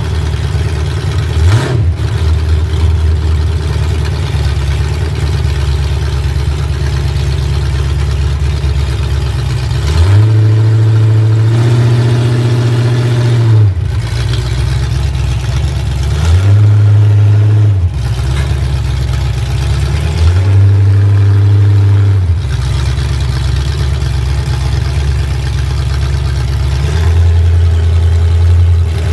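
Vehicle engine heard on a ride-along, running steadily and revving up four times, each time holding the higher revs for one to four seconds before dropping back.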